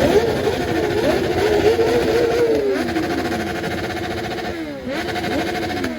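Sport-bike engines running and being revved, the pitch wandering up and down, then settling steadier with two brief dips near the end.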